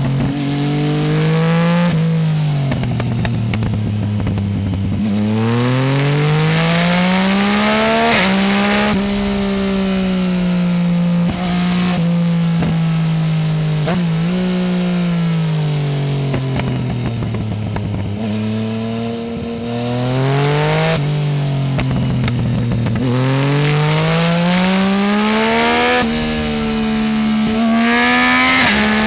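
Yamaha Tracer 900 GT's three-cylinder engine through a full Roads Italia exhaust with no dB-killer, revving up and easing off again and again as the bike accelerates and slows. The pitch climbs steeply several times and falls away between the climbs.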